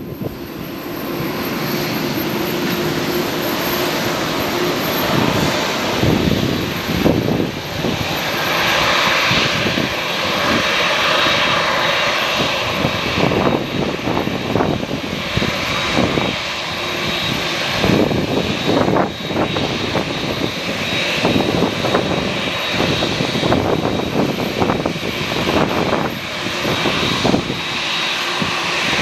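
Aircraft engines running steadily, with strong gusts of wind buffeting the microphone.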